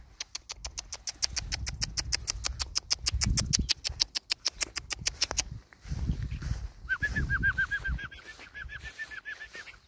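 A bird calling outdoors. A rapid, even run of sharp high ticks, about eight a second, lasts for the first five seconds or so. From about seven seconds in comes a fast series of short chirping notes, several a second.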